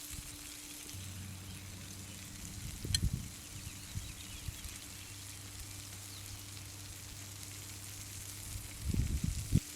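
Food sizzling in a frying pan over the fire, a steady hiss, with a few low knocks about three seconds in and again near the end.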